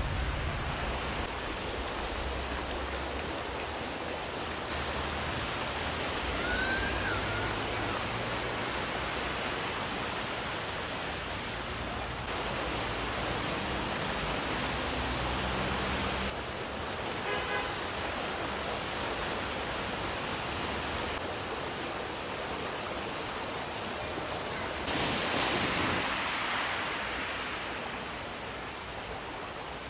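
Floodwater rushing along a city street in a steady broad hiss, with a vehicle engine's low hum underneath for the first half. The rush swells louder briefly near the end.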